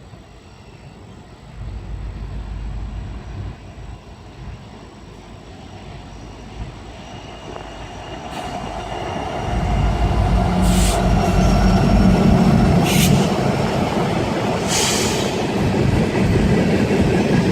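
Norfolk Southern SD70ACE diesel locomotive (EMD 710 two-stroke engine) approaching with an empty coal train. Its low rumble grows and becomes loud about ten seconds in as it draws level. The train rolls on with a thin steady wheel squeal and a few short hisses.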